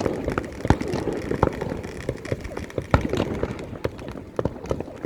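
Fireworks going off: an irregular run of sharp pops and bangs, several a second.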